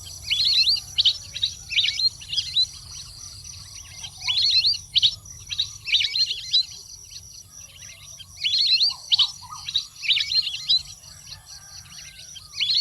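Ducks calling: bouts of high, curving whistled chirps that come in clusters every second or two, with short gaps between. A steady high-pitched drone runs underneath.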